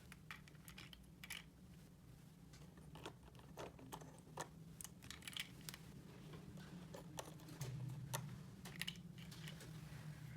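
Faint, scattered light clicks and taps of small plastic toy pieces being handled, over a low steady hum.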